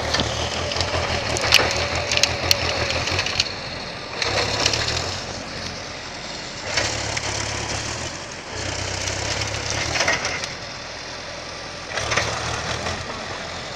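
DT-75 crawler tractor's diesel engine working under load while skidding logs, its sound swelling and easing several times. A few sharp cracks come about two seconds in.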